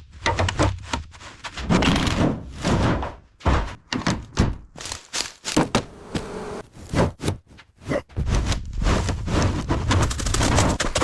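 Workshop teardown sounds on an old Chevy truck: a rapid, irregular series of knocks and clunks, with stretches of rough noise from tools working on the body.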